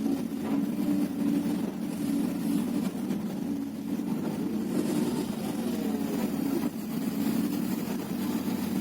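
Hyundai 330LC excavator's diesel engine running steadily, a low even hum, with a fainter tone that wavers up and down in pitch about five seconds in.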